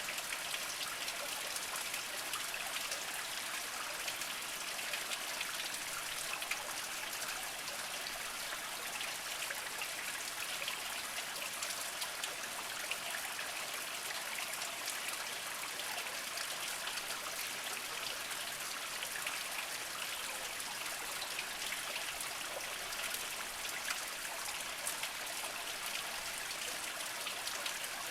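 Small mountain spring trickling and dripping over mossy rocks: a steady light splashing and babbling with many small droplet patters.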